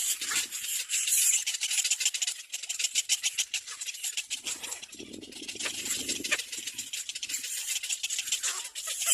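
Cormorant nestlings giving rapid, high-pitched clicking begging chatter, with a lower, rougher sound for a second or so about halfway through.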